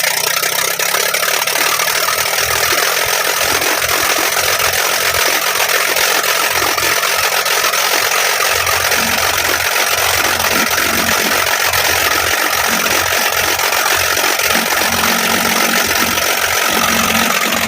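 Isuzu 6HE1 inline-six diesel engine running loudly and steadily with its exhaust manifold removed, so the exhaust blasts straight out of the open ports. The engine is misfiring and smoking, which the mechanic takes as a sign that the injection pump needs calibrating.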